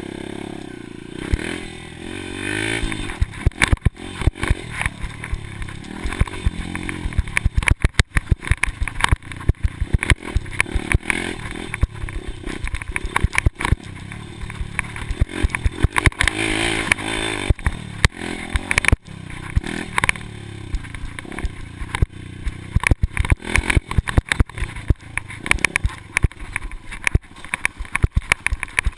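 Motocross dirt bike engine revving up and falling back again and again, with many sharp knocks and rattles throughout.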